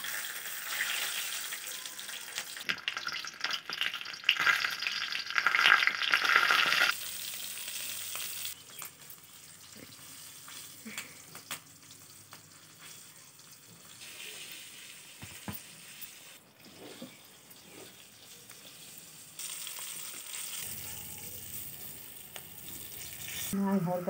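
Arrowroot-coated stuffed capsicums sizzling as they fry in hot mustard oil in a wok. The sizzle is loud for about the first seven seconds, then drops to a fainter sizzle that picks up again somewhat near the end.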